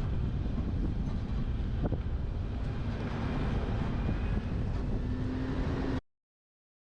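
Wind rushing over a roof-mounted camera and steady road and engine noise from a moving truck. The sound cuts off abruptly to dead silence about six seconds in.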